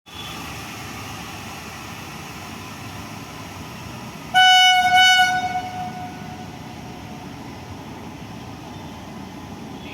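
Locomotive horn sounding a short double blast about four seconds in: one steady high note, the second blast fading out over a second or two. A steady rail-yard rumble runs underneath.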